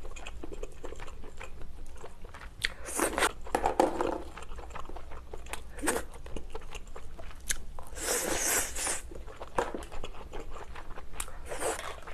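Cooked king crab shell and meat being picked apart by hand, with crackling and clicking of shell and wet chewing. A longer, louder rasp comes about eight seconds in.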